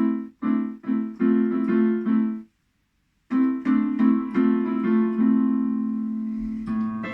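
Piano-toned keyboard playing the opening chords: a quick run of short chords, a pause of about a second, then more chords ending on a long held chord that slowly fades.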